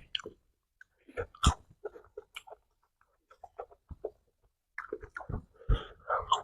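Crunchy chewing of roasted cicadas close to the microphone, a run of short, sharp crackles with brief gaps, busiest near the end.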